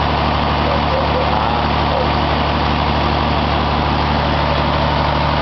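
Engine fuelled by biogas running steadily at an even speed, with no change in pitch.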